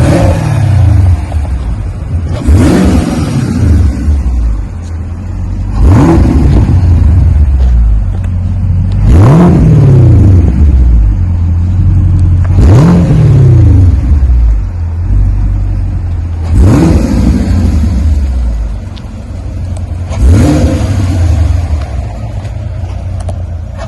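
2024 Chevrolet Camaro's 6.2 L LT1 V8 blipped repeatedly through a Magnaflow muffler exhaust with a stock X-pipe: about seven sharp revs a few seconds apart, each climbing and falling back to a low idle.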